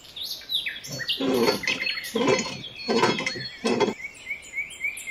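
Birds chirping: quick falling chirps and short whistles, with a run of lower, fuller calls repeating about once every second through the middle.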